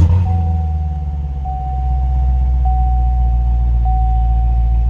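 Car engine catching right at the start and settling into a steady idle, getting a little louder about two seconds in. A thin steady tone, like a dashboard warning chime, sounds over it and renews about once a second.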